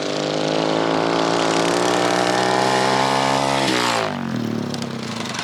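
Small off-road vehicle engine held at high revs, its pitch creeping slowly upward. About four seconds in, the pitch drops sharply as it comes off the throttle, and it carries on at a lower, rougher note.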